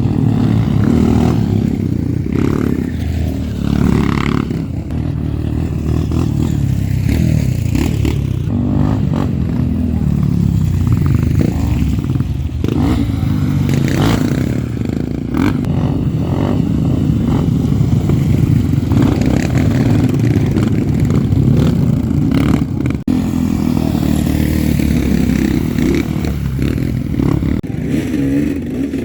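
Trail motorcycle engines running with throttle blips and revving, a steady rough running broken by short clattering clicks.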